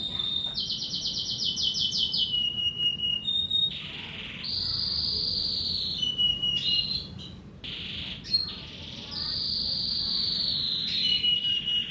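Domestic canary singing: a fast trill of rapid high notes, then long held whistled notes with short chirps between.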